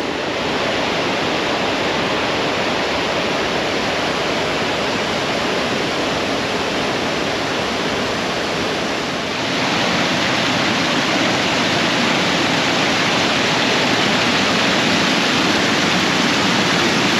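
Water pouring over a low-head roller dam: a steady, loud rush that grows a little louder and brighter about nine seconds in.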